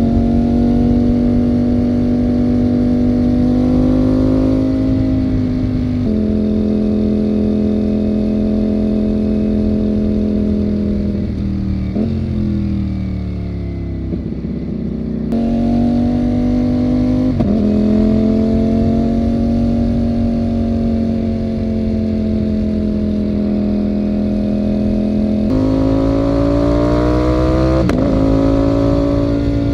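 Ducati Panigale V4's V4 engine running under steady throttle while riding, with gear changes heard as sudden steps in pitch: a drop about six seconds in, the revs falling away around twelve to fourteen seconds in, then jumps back up about fifteen and twenty-five seconds in.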